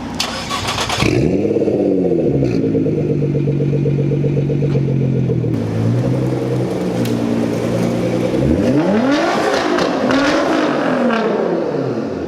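Straight-piped, twin-turbo V6 of a Nissan GT-R R35 revving up and dropping back about a second in, then running steadily, then revving up and down twice more near the end, with sharp crackle around the revs.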